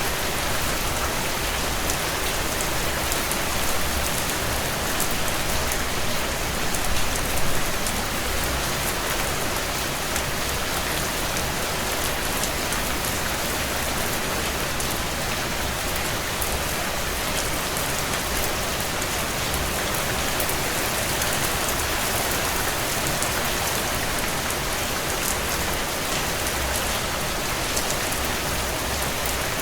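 Heavy rain on window panes, a steady even hiss, with faint small pops of a wood fire crackling in the fireplace.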